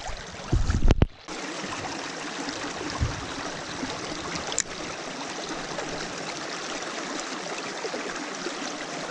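Small mountain creek running, a steady rush of water. About a second in there are a few loud low thumps and a brief drop-out, then the water sound goes on evenly.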